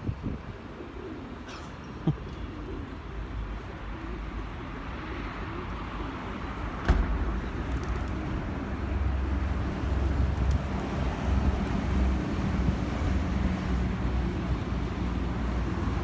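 Feral pigeons cooing over a low rumble of city traffic, with a single sharp knock about seven seconds in.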